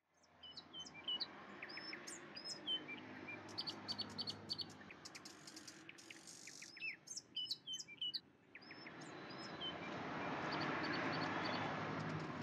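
Small birds chirping and tweeting in many short, repeated calls, with a quick run of rapid notes about four seconds in. About two-thirds of the way through, a steady rushing background noise swells up and becomes the loudest sound, with the chirps going on over it.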